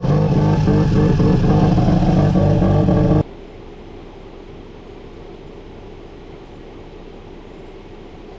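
Ported Mazda 12A rotary engine running loud and raspy through long-tube headers. About three seconds in the sound cuts off abruptly to a much quieter steady hum.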